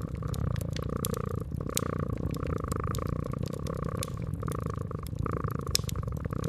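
Domestic cat purring steadily in a low, rhythmic rumble, over a wood fire crackling with scattered sharp pops.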